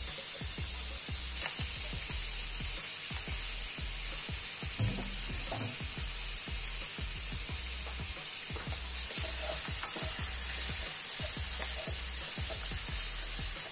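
Onion, minced meat and sliced beef meatballs sizzling in hot oil in a non-stick pan, stirred with a wooden spatula: a steady high hiss with many small clicks and scrapes.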